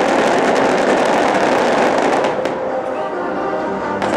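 Fireworks display: a dense, continuous crackle of many small bursts, easing off a little after about two and a half seconds.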